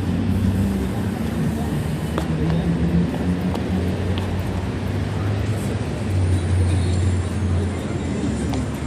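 Steady low rumble of street traffic, with an engine-like hum that swells and eases, under a faint murmur of distant voices.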